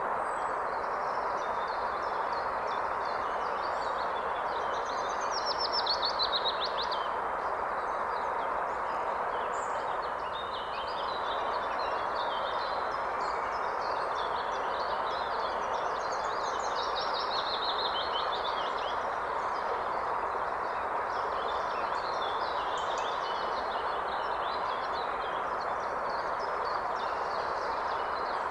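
Steady rushing of a forest stream or river, with several birds singing in high chirps and trills over it.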